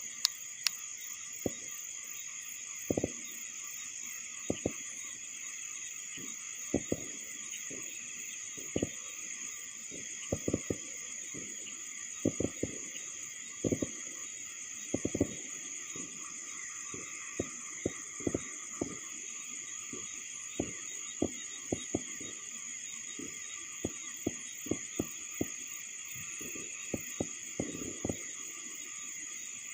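Steady night chorus of crickets and other insects, a shrill high-pitched trill, with short sharp pops scattered irregularly across it, the loudest sounds.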